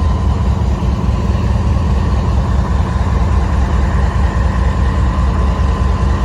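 Passenger train running, a loud steady low rumble with a faint high hum over it.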